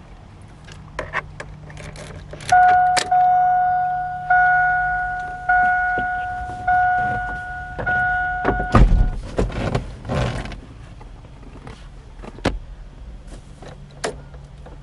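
GMC pickup's door-open warning chime dinging about five times, roughly once a second, then cutting off with a heavy thud as the door shuts, a little under nine seconds in. Scattered clicks and handling knocks come before and after.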